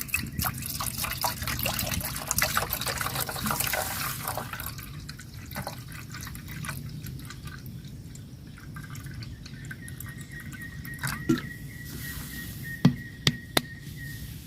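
Water dripping and trickling: a dense patter of drops for the first few seconds, then scattered, louder single drips. A thin steady high tone runs through the last few seconds.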